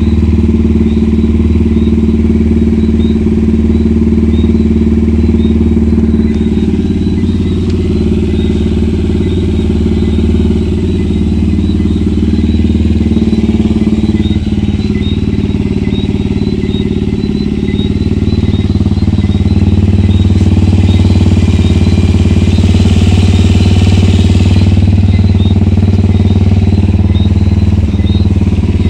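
A Power JH150GY-8 150cc motorcycle engine running steadily at low revs through an aftermarket exhaust. It gets a little louder about two-thirds of the way through.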